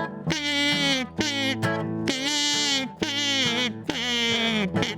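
Acoustic guitar playing the instrumental introduction to a song, with sustained chords under a lead melody that bends and slides from note to note.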